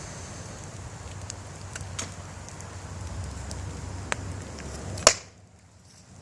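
A burning tube TV set crackling in an open fire, with a steady rushing under scattered sharp pops. The loudest pop comes about five seconds in, and then the sound drops away suddenly to near quiet.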